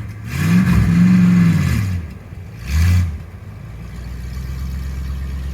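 Mini S10 monster truck's engine revved up and back down, a second short blip of throttle about three seconds in, then idling steadily.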